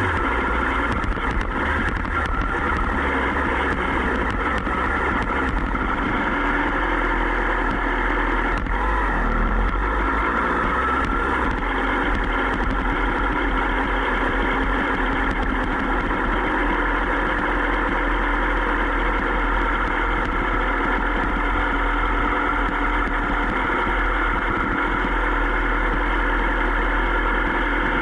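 Sport motorcycle engine running at a steady, even pitch with a constant low rumble, no revving up or down.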